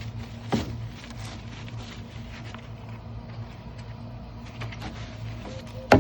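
Brush scrubbing on the soapy outside of a plastic wheeled recycling bin, in short scratchy strokes over a steady low hum. There is a sharp knock about half a second in and a louder knock at the very end.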